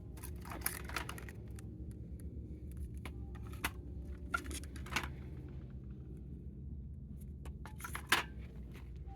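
Scattered handling noises, short clicks and rustles, over a steady low rumble, with the sharpest click near the end.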